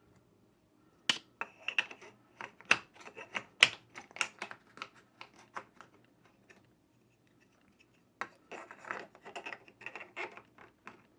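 Quick, irregular clicks, taps and scratches of objects being handled, in two bursts: one from about a second in to about six seconds, and another from about eight seconds in.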